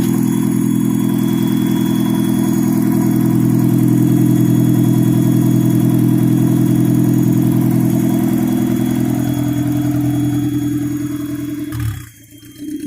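Turbocharged Mazda Miata four-cylinder engine idling steadily on E85, on an early MegaSquirt base tune being adjusted. The sound cuts off sharply about a second before the end.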